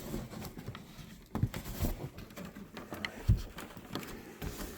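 Scattered light knocks and rustling from handling the engine's wooden shipping crate and packing, with two clearer knocks about a second and a half in and a little after three seconds.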